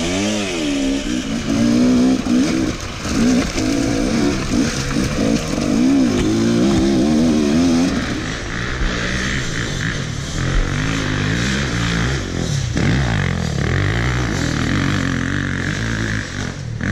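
Enduro dirt bike engines revving hard, the pitch rising and falling quickly with the throttle, the note changing about halfway through.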